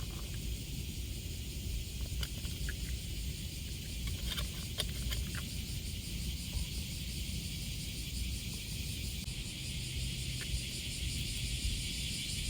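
Summer insects buzzing steadily in a high, even chorus over a low outdoor rumble, with a few faint clicks about two to five seconds in.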